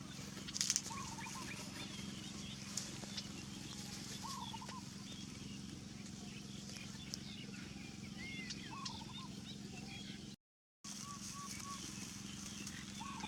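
Animal calls: short warbled calls of two or three quick notes, repeating every few seconds, with scattered faint chirps over a steady low hum.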